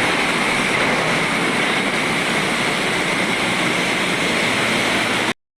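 Steady rushing wash of traffic on a wet road in light rain, tyre hiss and spray with no single vehicle standing out. It cuts off suddenly near the end.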